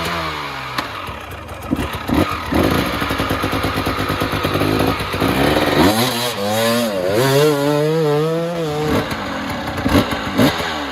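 Dirt bike engine running under changing throttle, its pitch rising and falling, with a few sharp knocks and clatter.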